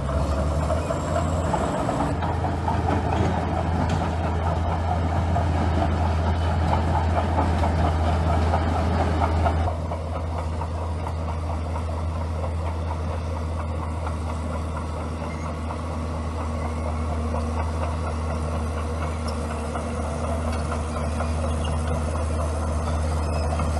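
Komatsu bulldozer's diesel engine running steadily, with a rough, clattering working noise over it. About ten seconds in the upper noise drops away suddenly and the engine carries on more evenly.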